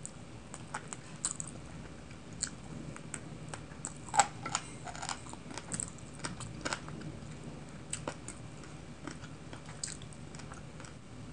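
Close-miked mouth sounds of eating with the hands: chewing and sucking meat and sauce off a kadai chicken bone, lip smacks and finger licking, with many short, sharp wet clicks, the loudest about four seconds in.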